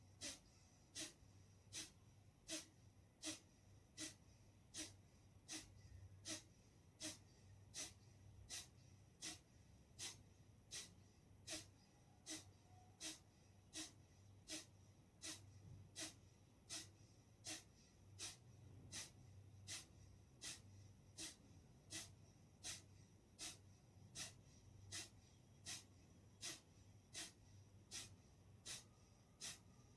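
Kapalbhati breathing: short, forceful exhalations puffed out through the nose, repeated evenly at a little over one a second. The breaths are faint.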